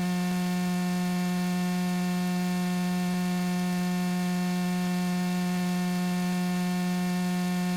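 Steady buzzy hum in a light aircraft's intercom audio, one constant pitch with many overtones, holding level throughout.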